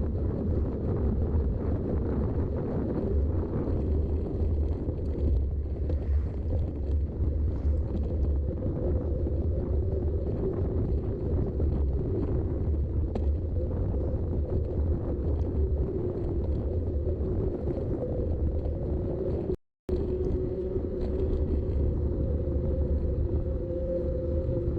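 A mountain bike riding along on Schwalbe tyres, heard through a GoPro: steady low rumble of tyres and wind on the microphone, with a faint tyre hum that becomes clearer later. The sound cuts out completely for a moment about twenty seconds in.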